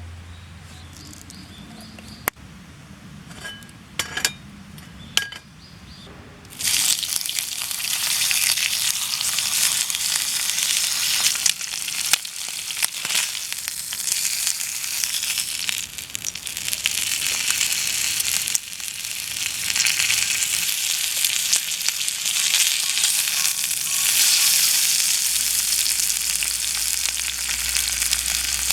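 A few light metal clinks, then, about six seconds in, a loud sizzle starts suddenly as thick-cut bacon hits the hot skillet. It keeps frying with a steady hiss and small crackles.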